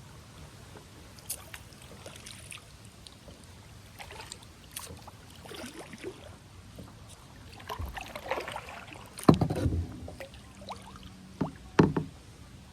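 Kayak paddling: the paddle blade splashing in the water, with scattered knocks of the paddle on the kayak, the loudest about nine seconds in and two more near the end.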